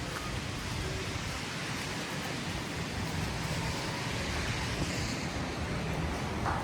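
Steady hiss of city street ambience in a snowfall: traffic tyres on a wet, slushy road mixed with wind, swelling a little around the middle as a vehicle passes.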